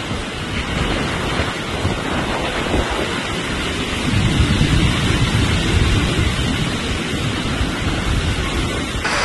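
Hurricane wind and heavy rain, with gusts buffeting the microphone as a deep, fluctuating rumble that grows stronger about halfway through.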